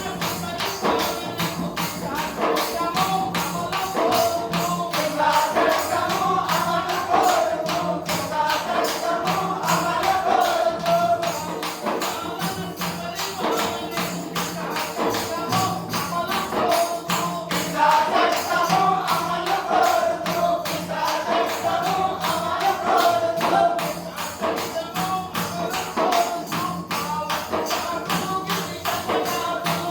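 A man singing a Telugu folk song in a wavering, melodic line over a steady, fast hand-percussion beat.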